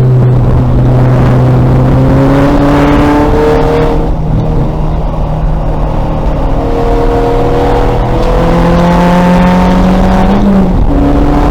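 A 2000 Volkswagen Golf race car's engine running hard under acceleration, its note climbing steadily, with sudden pitch changes at about four, eight and eleven seconds in, over constant road and wind noise.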